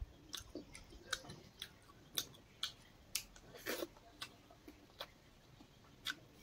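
A person eating close to the microphone: irregular sharp chewing clicks and crunches, roughly one or two a second.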